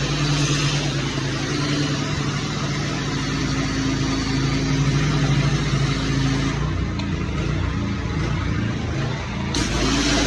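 An engine running steadily under a loud hiss. The hiss is strongest at the very start and again near the end, and the engine's note shifts about two-thirds of the way through.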